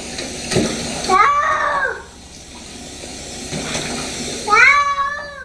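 Domestic cat yowling twice, long drawn-out meows that rise and fall in pitch and sound like "no".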